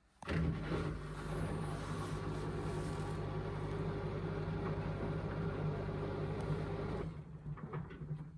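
Indesit washing machine running during its rinse: a steady hum with a rushing, watery noise that starts suddenly and cuts off about seven seconds later.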